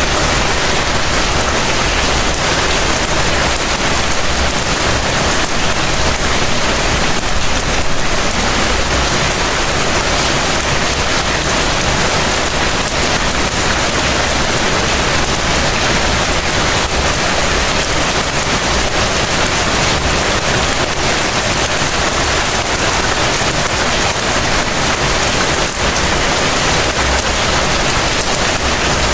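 Heavy rain falling steadily, an even dense hiss of drops on surfaces with no let-up.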